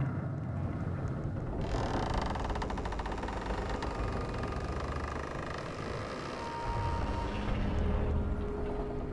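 Low rumble with drawn-out creaking over it: a rapid, rasping creak starts about two seconds in, and near the end it turns into a few held creaking groans at steady pitches.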